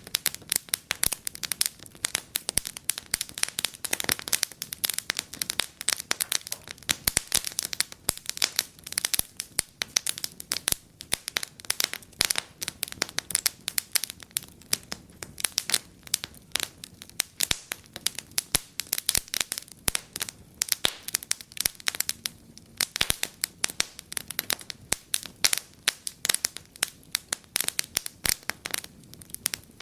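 Wood fire in a fireplace crackling, with a dense, irregular run of sharp pops and snaps.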